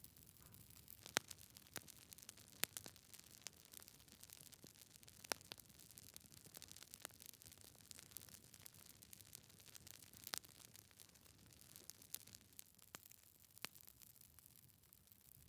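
Wood fire in a fireplace crackling: irregular sharp pops from the burning logs, the loudest about a second, two and a half, five and ten seconds in, over a faint low hiss of the flames.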